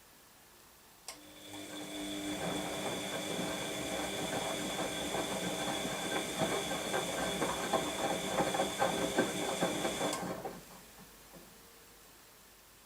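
Washing machine starts up with a click about a second in and runs with a steady motor whine and rapid rattling for about nine seconds, then cuts off.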